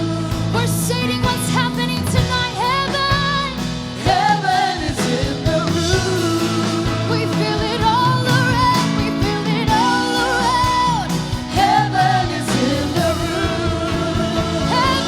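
Live worship band playing, with a singer holding long, wavering notes over guitar, bass and drums.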